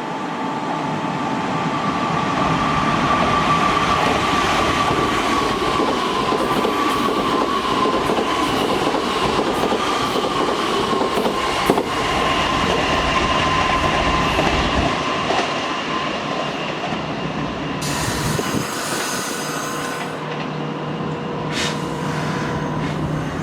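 Kintetsu Minami-Osaka Line electric train running through the station, its wheels on the rails giving a steady squeal that slowly falls in pitch as the train slows, over the rumble of the cars. A short burst of hiss comes near the end.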